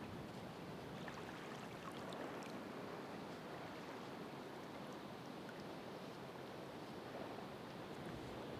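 Ocean waves washing against the shore, a steady wash of surf with small fizzing specks of spray and foam scattered through it.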